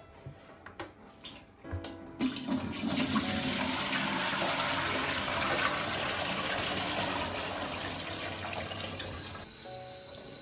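Tap water running into a sink, turned on about two seconds in after a few small clicks and knocks, then flowing steadily and easing off near the end.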